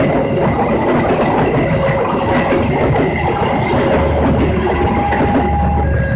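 Train passing close by at a level crossing, its wheels clattering steadily over the rails.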